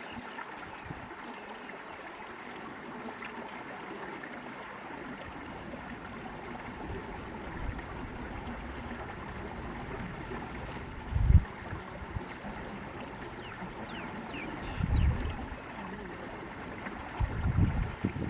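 Outdoor ambience: a steady rushing hiss like running water, with a few faint high bird chirps. Low thuds on the microphone come about eleven seconds in (the loudest), again about fifteen seconds in and near the end.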